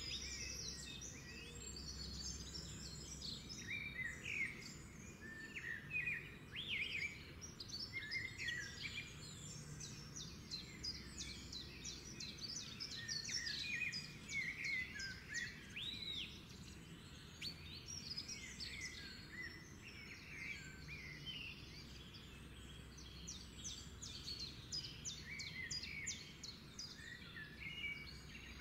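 Small birds chirping and singing continuously, many quick chirps and short gliding notes, over a faint steady low hum.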